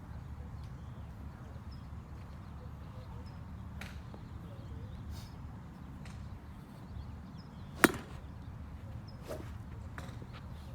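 Golf club striking a ball: one loud, sharp crack about eight seconds in, with several fainter strikes scattered through, over a steady low rumble.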